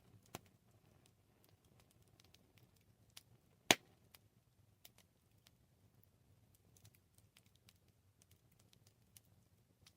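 Wood fire crackling: sparse small clicks and snaps, with one sharp loud pop a little under four seconds in, over a faint low rumble.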